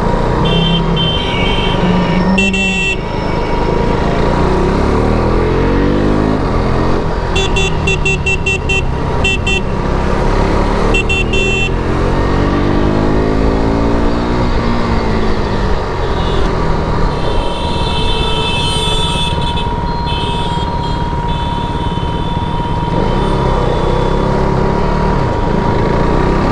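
KTM RC 390's single-cylinder engine on its stock exhaust, repeatedly revving up and easing off as it accelerates through the gears and slows while riding in traffic. Several short horn toots sound in the first half, one of them a quick run of beeps.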